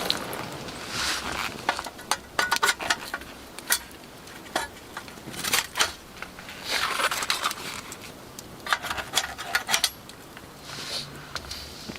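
Metal cookware and utensils being handled, with many light clinks and clatters scattered throughout and a few soft rushes of noise in between.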